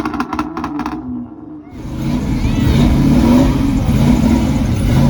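A car engine revving loudly at a car show, coming in about two seconds in after music with a beat breaks off.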